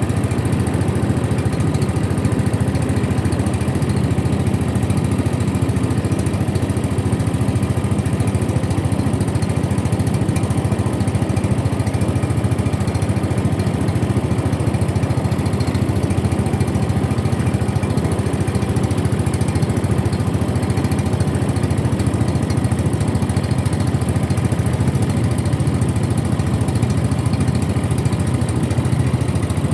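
A small boat engine running steadily at an even speed, a constant low hum with no change in pitch.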